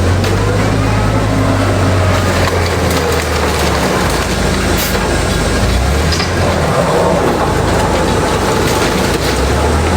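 Industrial bamboo shredder running under load: steady loud grinding and crunching with scattered sharp cracks of splintering bamboo, over a low motor hum that dips in the middle and swells again.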